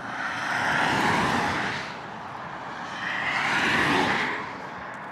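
Two road vehicles passing by one after the other, each swelling and fading over about two seconds.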